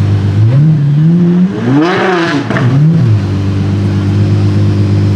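Apollo Intensa Emozione's 6.3-litre naturally aspirated V12 idling, then revved. The pitch climbs from about half a second in, peaks around two seconds, drops, blips once more and settles back to idle after about three seconds.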